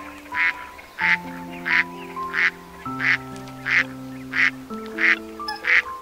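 A duck quacking over and over: about ten loud, short quacks at an even pace of roughly one and a half a second, over background music with slow held notes.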